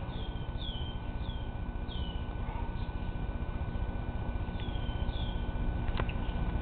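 A small bird chirping outdoors in two bouts of short, high notes that each slide downward, over a steady low background rumble. A sharp click about six seconds in.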